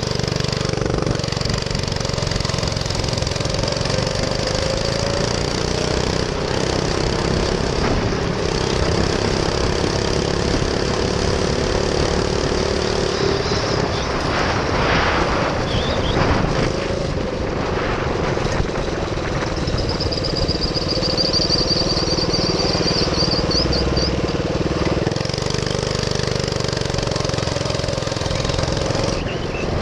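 Minibike's GX200 single-cylinder four-stroke engine running while the bike is ridden, its pitch rising and falling with the throttle, over a steady rush of wind and road noise. A high thin whine comes in for a few seconds past the middle.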